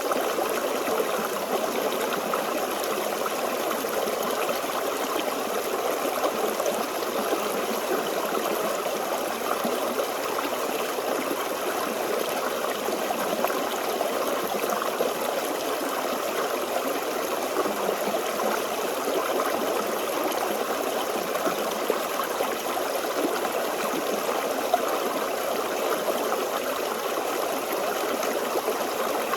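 A small forest stream flowing steadily over stones, an even babble and trickle of water.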